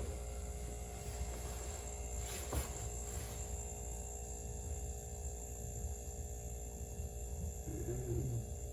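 Chest freezer compressor running with a steady hum after starting on a newly fitted starter relay; it is staying on rather than clicking off. A brief click about two and a half seconds in.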